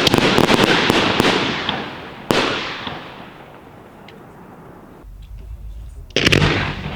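Aerial fireworks from an ABA Pyrotechnik 400TI 3-inch battery bursting. There is a loud bang at the start, followed by about a second of dense crackling. Another bang comes about two seconds in and a third near the end, each dying away in a long fading rumble.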